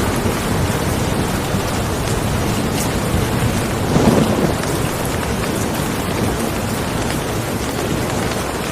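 Steady heavy rain falling, a dense even hiss, with a brief louder low swell about four seconds in.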